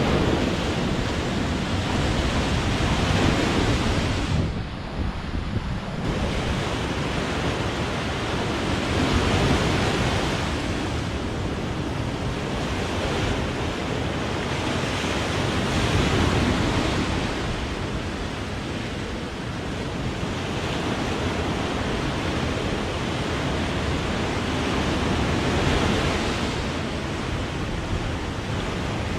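Sea waves breaking on the shore, a continuous surf that swells and eases every several seconds.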